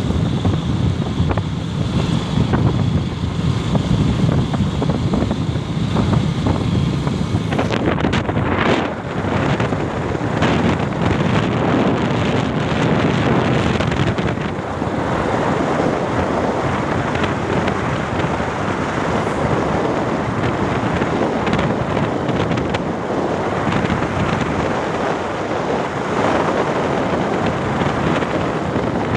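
Wind buffeting the microphone on a moving motorcycle, with vehicle road noise underneath. About seven seconds in, the sound shifts from a lower rumble to a broader, more even hiss.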